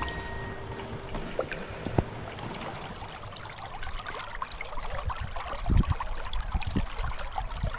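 Water trickling and splashing, with scattered small drips and a few soft low splashes about six seconds in.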